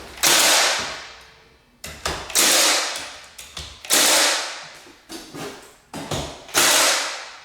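Hammer blows nailing a wooden door stop back onto the door jamb. Four hard strikes, each with a ringing tail, come roughly every one and a half to two seconds, with lighter taps between them.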